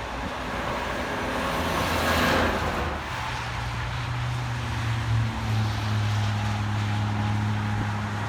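Road traffic: a vehicle goes by about two seconds in, then a heavy vehicle's engine holds a steady low drone.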